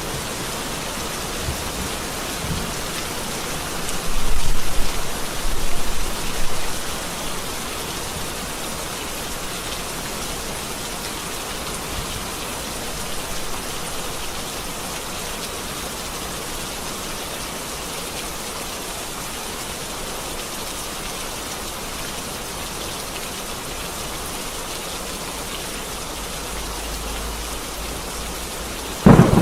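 Steady rain falling, with a rumble of thunder swelling about four seconds in and lasting a few seconds. A sharp thunderclap breaks in right at the end.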